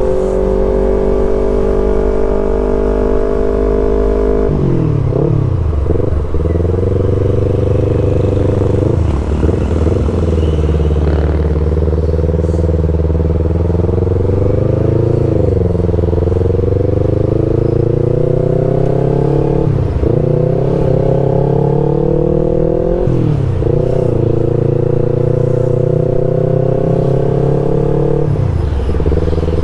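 Yamaha R25's parallel-twin engine through a Prospeed full-system exhaust while riding. The revs climb and drop back about six times. The exhaust's glass-wool packing has gone three years unchanged, which the owner says has changed its formerly deep, bassy sound.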